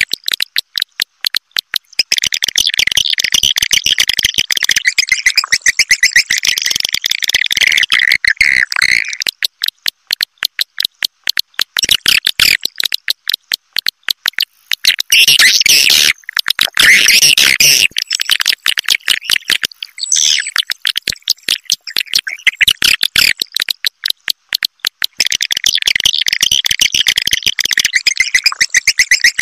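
Swiftlet roosting lure call: a dense, high-pitched twitter of rapid chirps and clicks in long runs, with a few short breaks and a harsher stretch around the middle. It is the recorded call played to draw swiftlets to roost in a swiftlet house.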